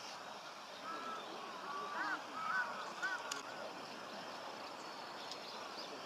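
Several short, arched bird calls in quick succession, clustered from about one to three and a half seconds in, over a steady outdoor hiss. A single sharp click comes just after the calls.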